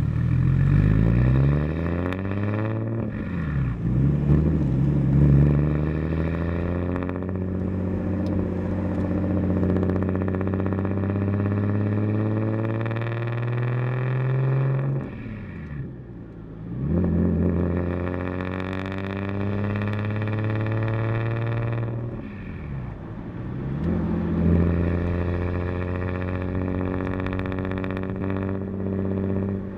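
Single-turbo BMW 335i inline-six pulling through the gears, heard from a mic at the licence plate: the engine note climbs in pitch, drops back at each shift or lift-off, then climbs again, with a long pull in the middle.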